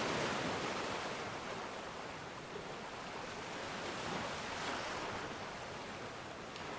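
Ocean waves washing onto a shore, a steady hiss of surf that ebbs slightly mid-way and builds again near the end.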